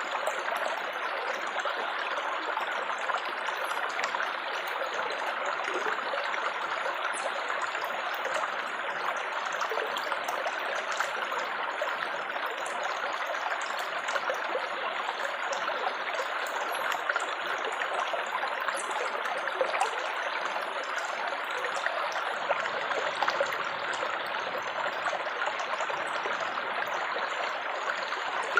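Small stream of water babbling steadily.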